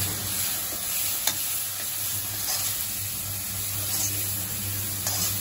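Spiced onion-tomato masala sizzling in an iron kadhai while a metal spatula stirs it, with a sharp clink of the spatula against the pan about a second in. A low steady hum sits underneath.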